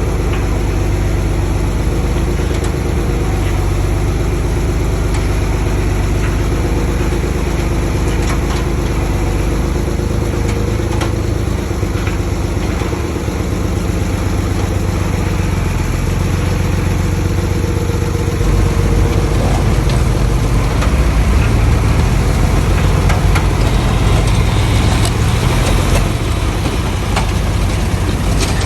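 Diesel engine of heavy construction machinery running steadily, growing louder and heavier about two-thirds of the way through, with a few short knocks near the end.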